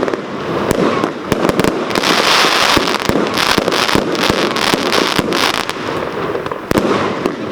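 World's Toughest Fireworks 'Gold Crystal' 144-shot firework cake firing a rapid string of shots and bangs. From about two seconds in to past five seconds, a dense crackling hiss fills in between the shots.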